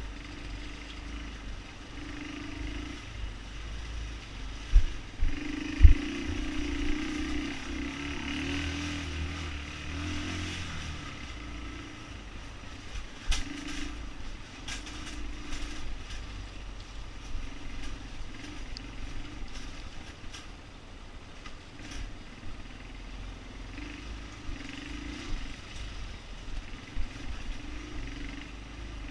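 Motorcycle engine running steadily, with a few sharp knocks about five and six seconds in.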